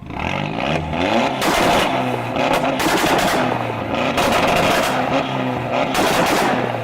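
A loud car engine revving up and down repeatedly, with a harsh, rasping exhaust note over the engine tone, as the car sets off on a victory lap.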